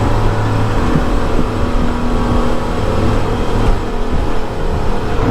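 Twin Suzuki 350 hp V6 outboard engines running hard on a fast planing boat, with a rush of wind and water over the engine note; the engine pitch steps up right at the end.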